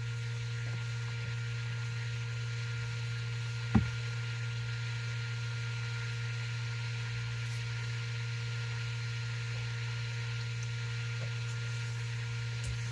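Steady low hum, with a single short knock about four seconds in.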